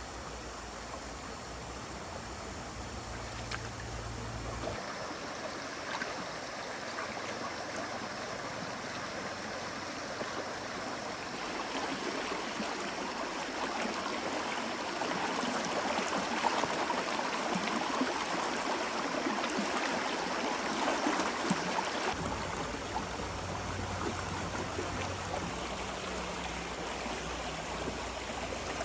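Water running in a forest stream: a steady rush that grows louder for about ten seconds in the middle.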